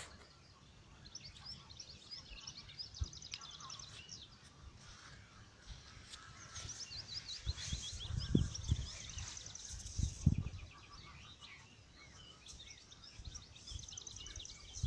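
Small birds singing in rapid repeated trills, over a light background hiss, with a few low thumps about halfway through.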